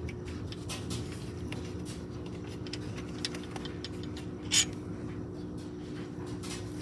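Light clicks and scrapes of small metal parts being handled, with one sharper click about four and a half seconds in, over a steady low hum.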